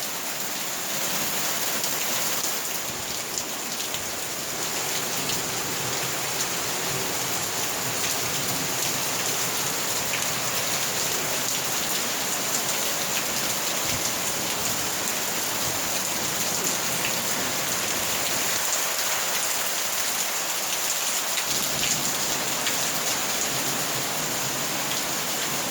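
Heavy monsoon rain falling steadily, with many individual drops striking surfaces.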